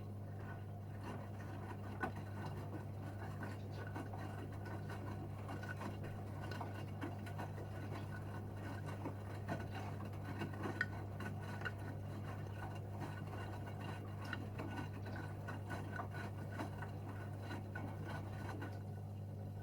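Gorenje UseLogic 65165 washing machine running mid-programme: a steady low hum with many small irregular ticks and patters from water and laundry inside.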